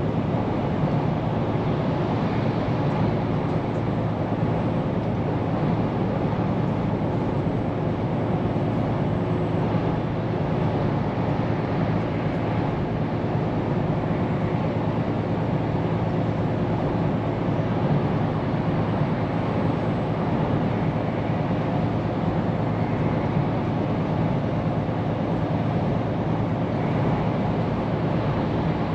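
Scania P410 truck driving at a steady pace: an even engine drone mixed with road and tyre noise, with no marked changes.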